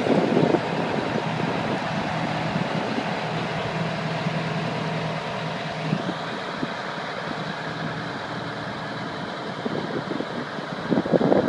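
Fire truck's Detroit Series 92 diesel engine idling steadily; about halfway through a faint, thin high tone joins in.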